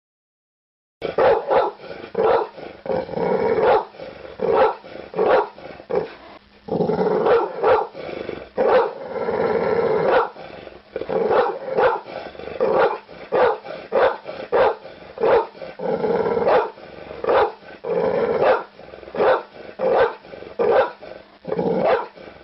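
A dog barking over and over, starting about a second in, with a few longer drawn-out sounds between the barks.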